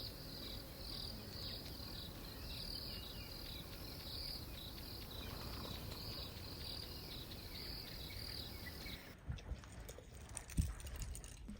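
Insects chirping in a steady, faint pulsing rhythm, a chirp about every two-thirds of a second. The chirping stops suddenly about nine seconds in, followed by a few faint knocks.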